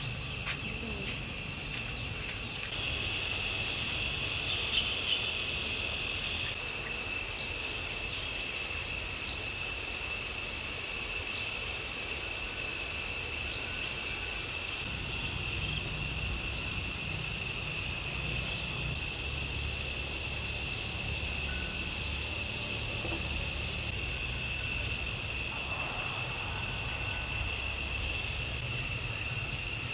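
Insects chirring in a steady, continuous high-pitched chorus, over a low rumble.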